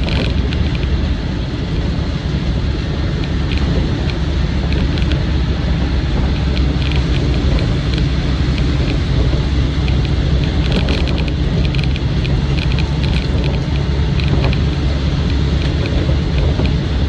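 Land Rover Defender 90's 300Tdi four-cylinder turbo-diesel engine drones steadily under way, heard from inside the soft-top cab, together with tyre noise from military tyres. Short rattles come in now and then from the two-piece doors and windows.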